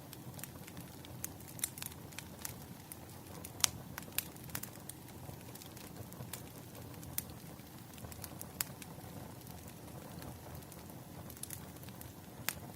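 Wood fire crackling: irregular sharp pops and snaps of burning logs over a steady low rumble, with one louder pop a few seconds in and another near the end.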